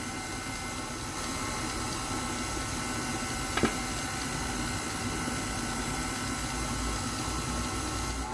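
Electric mixer running steadily, beating flour into creamed butter and sugar for cookie dough. A single brief knock about three and a half seconds in.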